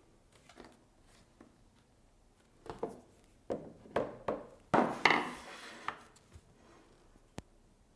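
A handful of irregular hard knocks and taps, wood or board against a hard surface, bunched in the middle with a brief scrape after one of them, then a last single knock near the end.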